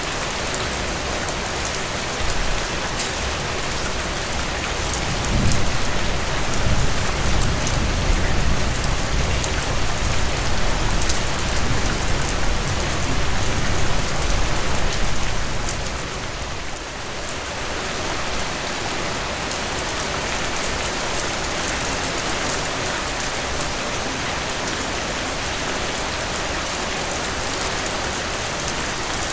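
Steady rainfall, an even hiss of many drops on a surface. A low rumble swells under it from about five seconds in, then fades out about ten seconds later.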